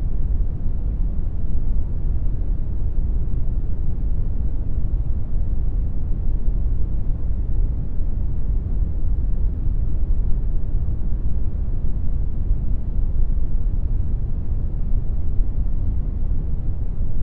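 Synthesized brown noise: a steady, even rush of noise weighted heavily to the low end, with no tones or changes.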